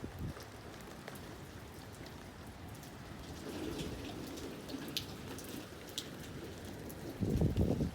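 Steady rain falling, with individual drops ticking sharply on a surface now and then. Near the end there is a short low rumble on the microphone.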